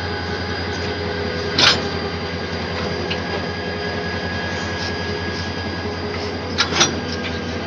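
Train running on the rails: a steady rumble with a few held tones, a single sharp clack about a second and a half in and a quick double clack near the end.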